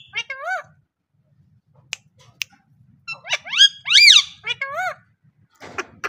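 Pet parrot calling in warbling, whistle-like notes that waver up and down in pitch: a short run of calls at the start, then a longer string from about three seconds in. Two sharp clicks come around two seconds in.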